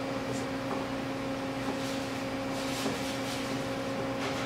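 A steady electrical hum from shop equipment with a low, even pitch, with faint rustles and light clicks over it.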